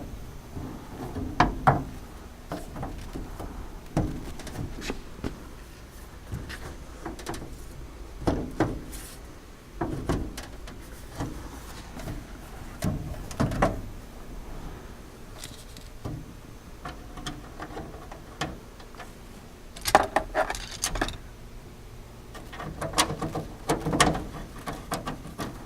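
Interior door panel being worked onto a truck door and pressed into place: irregular knocks, clicks and rattles of the panel and its clips, in short clusters with pauses between.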